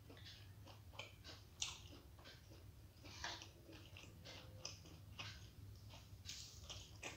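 Quiet, wet mouth sounds of someone chewing soft steamed veg momos: irregular lip smacks and small clicks, a few sharper ones, over a low steady hum.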